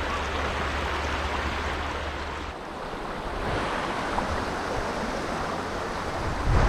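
Steady rush of flowing creek water, with a brief dip about two and a half seconds in and wind buffeting the microphone near the end.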